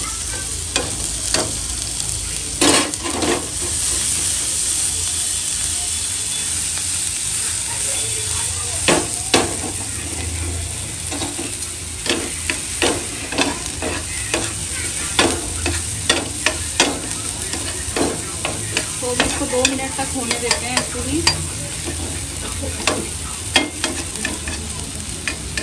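Chopped onion, tomato, sweet corn and green chilli sizzling on a flat griddle pan, with a spatula scraping and tapping the pan over and over as the vegetables are stirred and sautéed.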